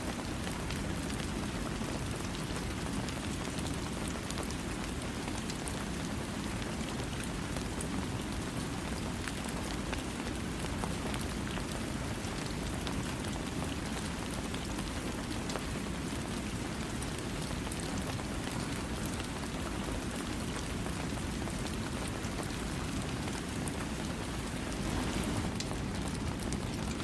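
Steady rain falling, a dense even hiss of drops with a heavier low rush beneath, swelling slightly near the end. No thunder.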